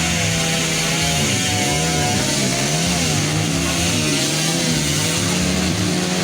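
Several motocross bike engines revving at once, their pitches rising and falling and crossing over one another, over a steady low engine drone.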